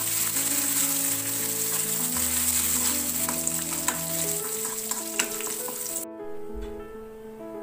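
Cashew nuts and curry leaves sizzling as they fry in hot coconut oil and ghee, with a ladle clicking against the pan as they are stirred. The sizzling cuts off suddenly about six seconds in.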